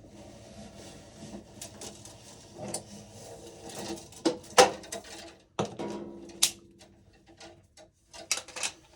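Hands working wire and tools in an electrical breaker panel: scattered clicks, taps and light rustling, with the sharpest click about halfway through and a cluster of clicks near the end.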